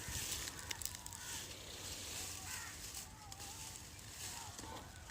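Scattered faint bird calls over a steady high-pitched hiss.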